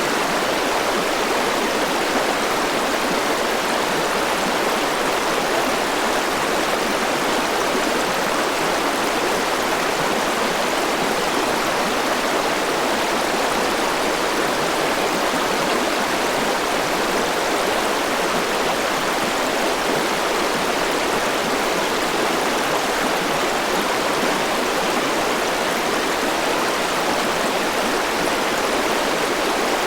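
Forest river rushing over rocks, a steady even flow.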